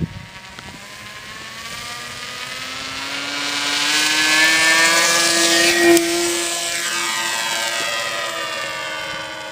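Radio-control model airplane's motor and propeller running up to takeoff power. The pitched whine rises over the first few seconds, is loudest about six seconds in, then slowly fades.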